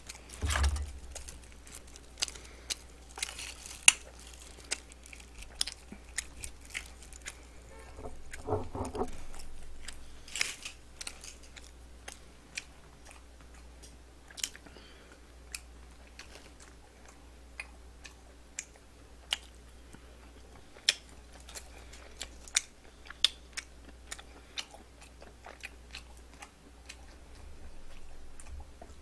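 A person chewing and crunching food close to the microphone, with many short, sharp crunchy bites scattered throughout.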